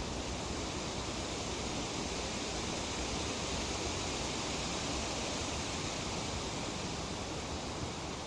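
Tree leaves rustling in a light breeze: a steady, even hiss that swells a little in the middle.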